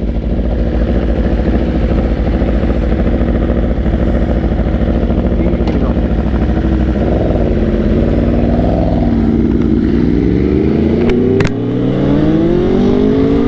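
Loud motorcycle engines running, then from about ten seconds in one revs up with a steadily rising note as it accelerates hard.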